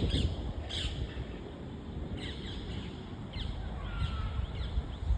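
Birds calling outdoors: short, high chirps that fall in pitch, scattered every second or so, over a steady low rumble.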